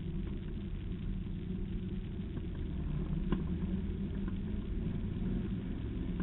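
Westfield Seight's Rover V8 engine running at low speed, a steady low rumble heard from the open cockpit. A single light click about halfway through.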